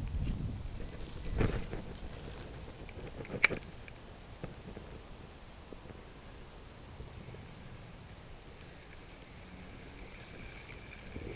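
Outdoor river ambience: a low rumble of handling and a knock in the first two seconds, then one sharp click, the loudest sound, a few seconds in. After that a steady faint hiss.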